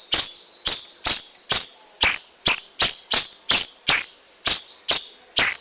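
A bird's sharp, high call repeated evenly, about two to three times a second, each note ringing briefly.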